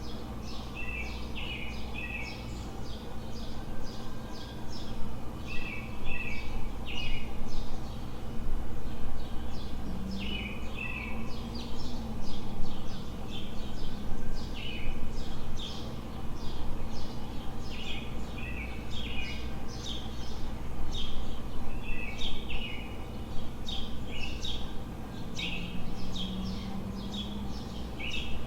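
Several small birds chirping rapidly and continuously over a steady low city hum.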